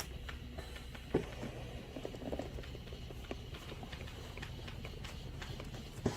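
A massage machine runs with a steady low motor hum, over which come scattered light taps and clicks and two soft thumps, one about a second in and one near the end.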